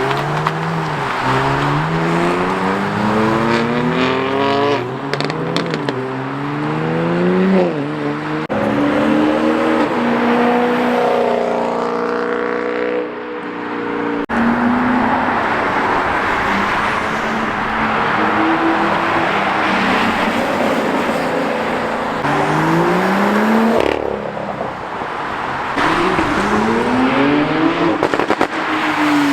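Car engines revving hard and accelerating past one after another. The pitch climbs and then drops sharply several times as they shift gears, over a constant rush of tyre and exhaust noise.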